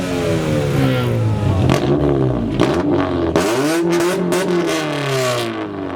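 Car engine revved hard through a loud aftermarket exhaust. The revs fall, climb again about three seconds in and drop back, with a run of sharp pops from the exhaust in the middle.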